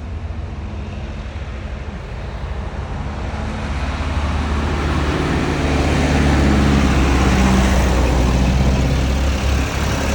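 Tractor engine running, getting louder over the first several seconds as it comes near, then easing off slightly near the end.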